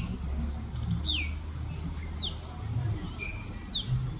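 A small bird calling: short, high chirps that sweep steeply downward in pitch, repeated about once a second, four times, over a low rumble.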